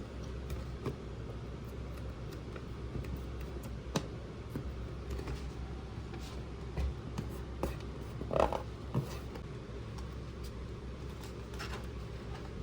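Hands handling a plastic toy playset and its packaging: scattered light clicks and rustles, with a louder scrape a little past the middle, over a steady low hum.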